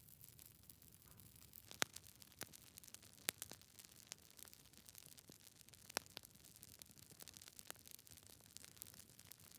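Wood fire crackling in a fireplace: scattered sharp pops and snaps from the burning logs over a faint hiss, the loudest pops about two, three and six seconds in.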